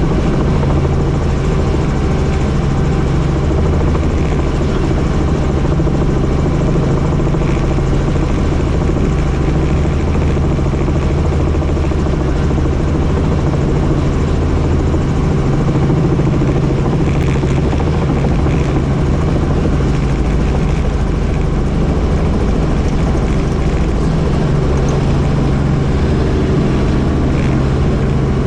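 Helicopter in flight, its rotor and engine running steadily, with a constant low hum.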